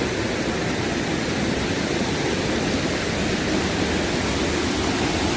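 Steady rush of water from a forest waterfall and its stream, an even hiss with no single events.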